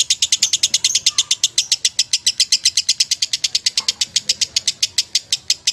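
Lovebird ngekek: a long, unbroken run of sharp, high chirps at a steady pace of about nine a second, the continuous chattering song that Indonesian contest lovebirds are prized for.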